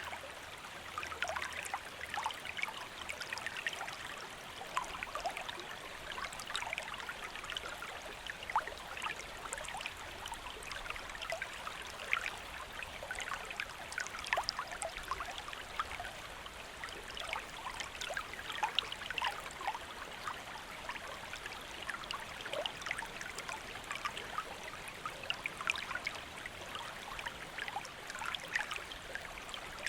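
Shallow stream flowing steadily, a continuous rush of water thick with small splashes and trickles.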